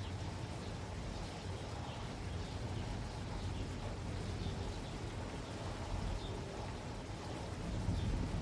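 Steady rain falling, with a low rumble underneath and faint short bird chirps now and then.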